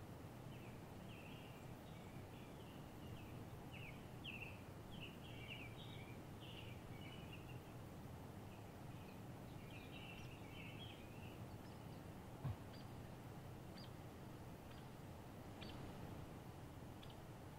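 Songbirds chirping and twittering over a faint, steady low background noise. Two runs of quick chirps are followed by scattered single higher chirps. A single sharp click comes about two-thirds of the way through.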